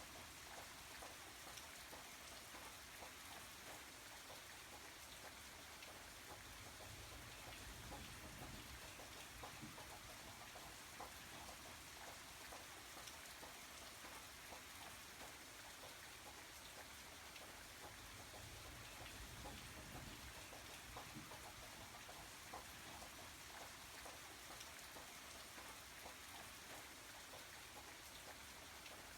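Faint, steady rain, with scattered patters of individual drops.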